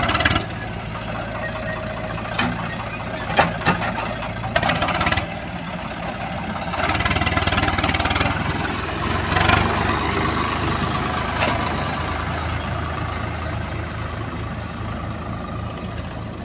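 Heavy diesel engine of earth-moving machinery running steadily, with a few sharp knocks in the first half. The engine grows louder about seven seconds in as it takes on load.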